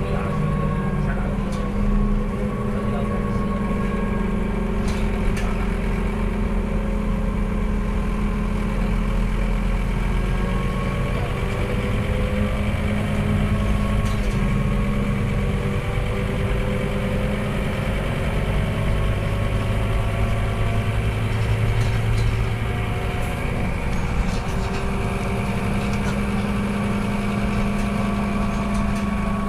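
Scania K230UB single-deck bus's diesel engine running under way, its pitch rising and falling as the bus speeds up and slows.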